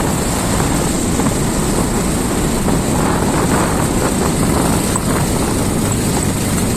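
Motorcycle being ridden along a rough off-road track: a steady, loud rumble of engine and road noise.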